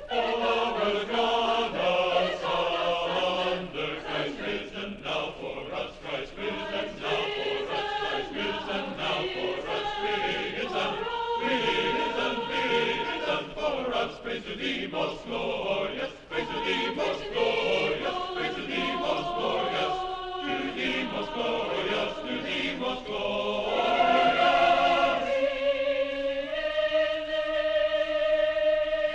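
A choir singing, many voices moving through changing chords; near the end they settle into long held notes.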